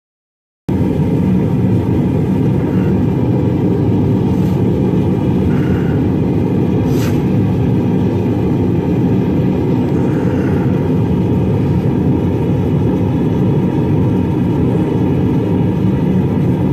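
Homemade LPG gas forge's burner running: a loud, steady rushing noise that starts abruptly about a second in and holds level throughout.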